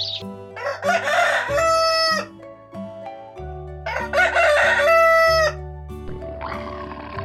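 Rooster crowing twice, each a loud cock-a-doodle-doo ending in a drawn-out held note, over background music.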